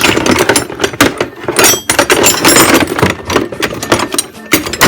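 Metal hand tools clattering and clinking together as wrenches are rummaged through and pulled out of a toolbox, a steady run of knocks and rattles.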